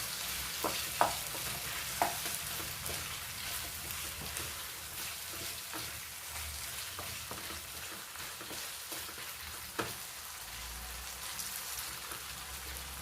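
Thick chicken curry sizzling in a pan as it is stirred with a spoon, with a few sharp clicks of the spoon against the pan, about a second in, at two seconds and near the end.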